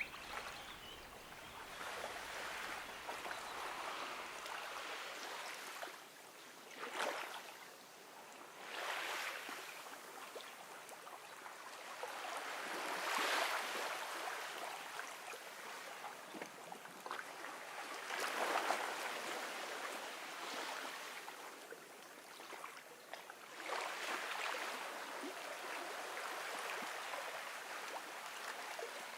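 Gentle ocean waves washing onto a beach: a steady hiss of surf that swells every few seconds as each small wave breaks and runs up the sand.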